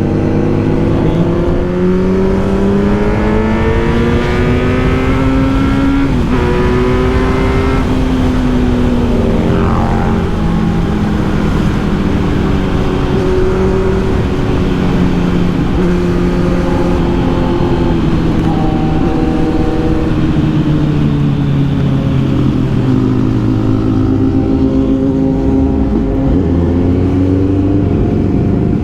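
Kawasaki Z900's inline-four engine running on the move. Its pitch climbs over the first few seconds, drops sharply about six seconds in, rises and holds again, then falls away near the end.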